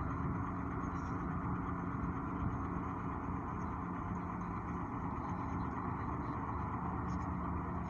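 Heavy diesel engine of construction machinery running steadily at a constant speed, with no revving or change.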